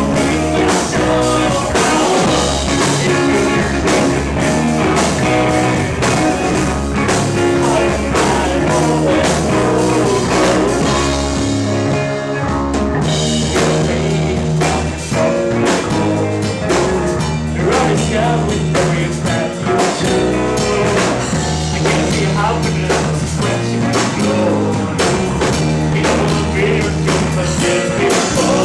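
Live rock band playing loudly: electric guitar, bass and drum kit. The cymbals drop out briefly about twelve seconds in.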